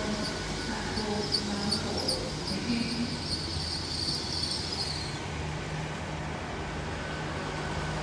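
Passenger train drawing into the platform: a high-pitched squeal with light ticking that dies away about five seconds in, over a steady low hum of the train's engines.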